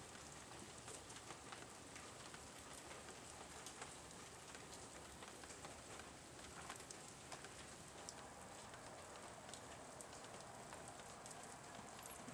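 Faint steady rain pattering on a wet flagstone patio and steps, with many small scattered drop ticks.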